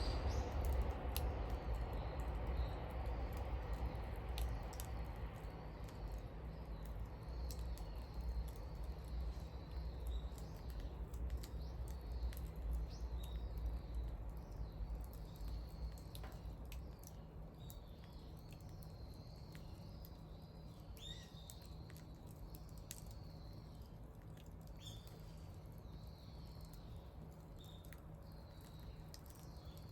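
Wood fire crackling with scattered sharp pops while small birds chirp repeatedly. A low rumble fades away over the first half.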